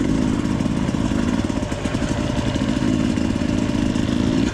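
Dirt bike engine running steadily while being ridden, with a fairly even engine note.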